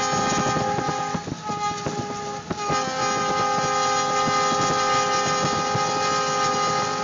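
Diesel locomotive horn sounding a long, steady chord over a rushing noise of the train and flying snow as it plows through deep drifts. The horn weakens about a second in and comes back strongly just after two and a half seconds.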